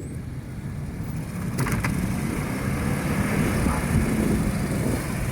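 Vehicle engines running hard under load during a mud recovery tow, the rumble building about a second and a half in, with a brief crackle as it builds.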